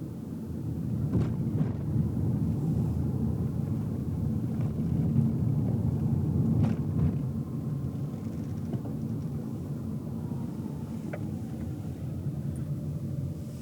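Car driving, heard from inside the cabin: a steady low rumble of road and engine noise, with a few faint knocks and rattles along the way.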